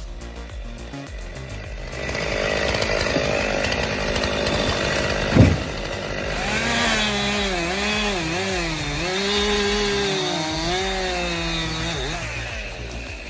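Chainsaw cutting into wood, its engine pitch wavering up and down as it bogs and recovers under load, with one sharp thump about five seconds in.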